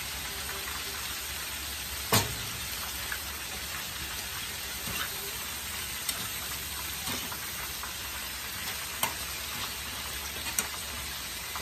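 Food frying in hot oil on the stove, a steady sizzle. A sharp clack of a utensil or pan comes about two seconds in, and a few lighter knocks follow.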